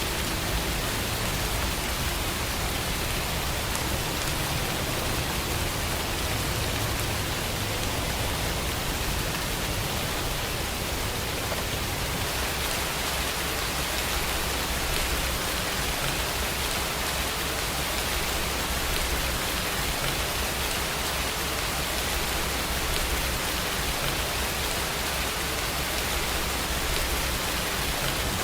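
Steady rainfall: an even, unbroken hiss with a low rumble underneath.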